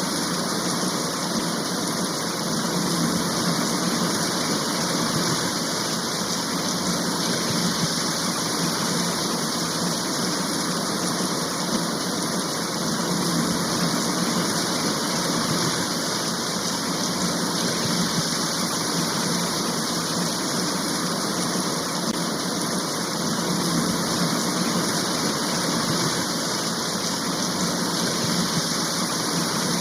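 Heavy rain shower falling steadily: an even, unbroken hiss of rain with no gaps or changes.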